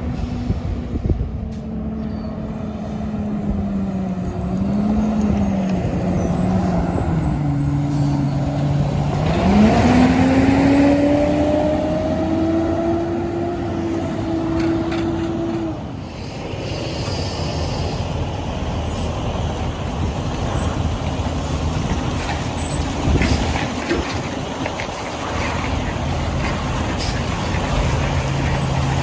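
Diesel garbage truck engines running; one engine revs up sharply about a third of the way in, holds a steady higher pitch for several seconds, then fades away, leaving a lower rumble of trucks.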